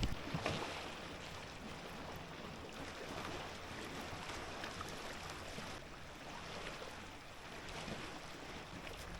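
Water lapping and washing around a kayak on a lake: a soft, steady wash with a few faint splashes.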